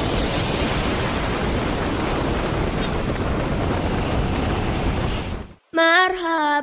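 A steady rushing hiss of noise that cuts off suddenly about five and a half seconds in; after a short silence, a child's voice starts singing near the end.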